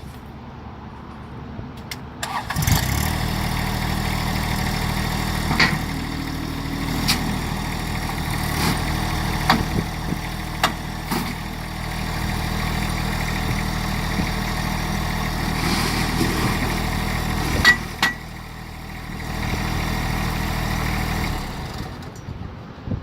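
Compact tractor's diesel engine starting and running steadily, with several sharp knocks heard over it. The engine sound dips briefly late on, picks up again, then stops shortly before the end.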